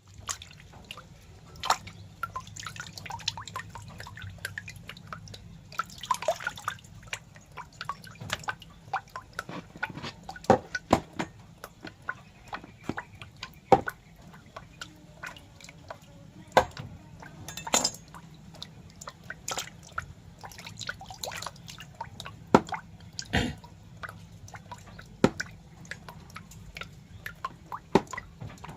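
Irregular wet drips and clicks, a few a second, some sharper and louder than others, over a faint low hum.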